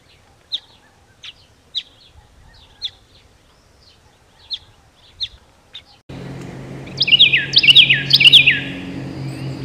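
Small birds chirping with short, sharp calls spaced a second or so apart. About six seconds in, the sound changes abruptly to a louder, busier run of quick falling whistled notes over a steady low hum.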